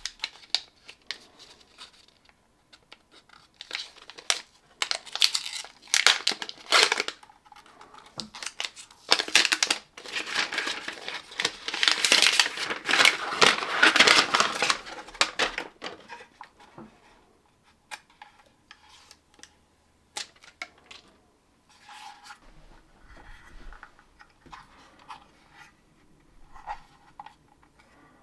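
Packaging being handled and torn open: irregular rustling, tearing and crinkling, loudest and most continuous in the middle, followed by lighter clicks and taps as parts are handled.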